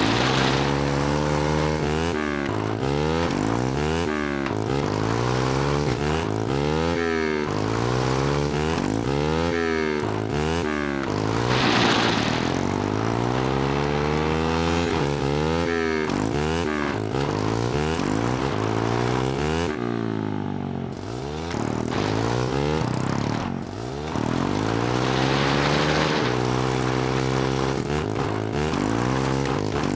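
Mini bike's small engine running and being revved up and down over and over, its pitch rising and falling every second or two, with a few longer steadier stretches between.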